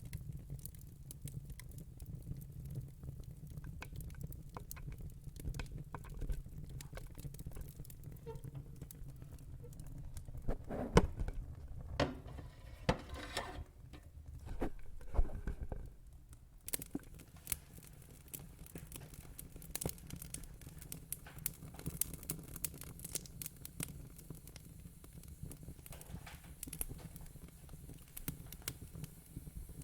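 Wood fire in a fire pit crackling, with many small sharp pops and snaps over a low steady rumble. A run of louder pops comes about a third of the way through.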